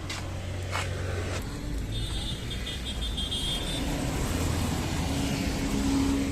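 Road traffic going by, with a steady low engine rumble. A thin high tone sounds for about two seconds in the middle, and a steadier, lower tone comes in near the end.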